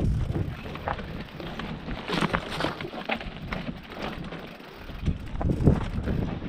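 Mountain bike riding down a dirt forest trail: tyres on loose ground and the bike rattling with irregular knocks over bumps, with wind buffeting the microphone.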